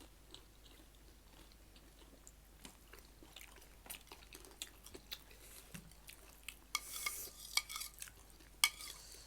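Quiet eating sounds: scattered light clicks and clinks of tableware and chewing, with a cluster of louder crackling clicks in the last two to three seconds.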